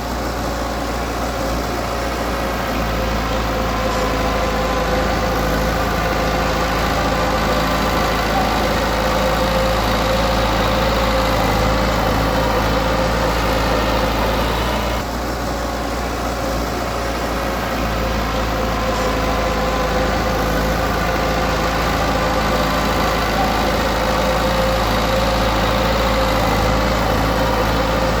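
Diesel engine of heavy earthmoving machinery running steadily, with a slight drop in level about halfway through.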